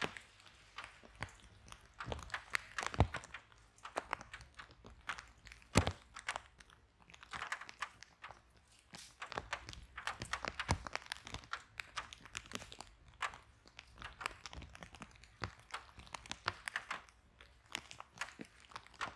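Wood fire burning in a fireplace: irregular crackling and popping, with a few louder pops, over a faint low rumble of the flames.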